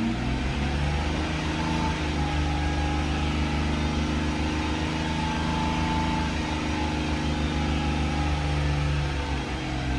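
2001 Mercedes-Benz CL600's 5.8-litre V12 running at raised revs with an even, steady note as it is held at different engine speeds to check for misfires. The revs drop at the start and ease down again near the end. It runs smoothly, with no misfire.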